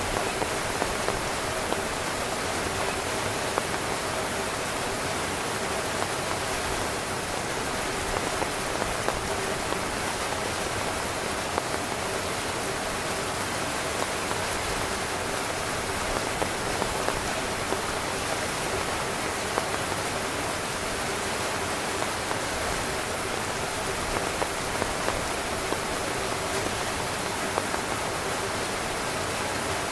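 Heavy rain falling on a camping tent: a steady hiss of rain, with frequent sharper hits of single drops on the fabric.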